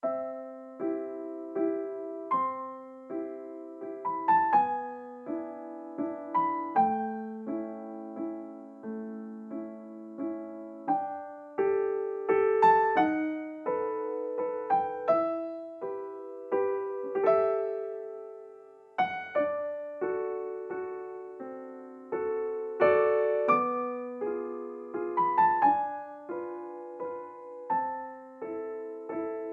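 Background piano music: a melody of struck notes that ring and fade over chords, starting at once from silence.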